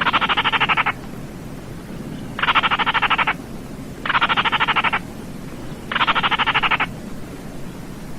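Baillon's crake calling: four dry, rapid rattling trills, each under a second long and about a second and a half apart.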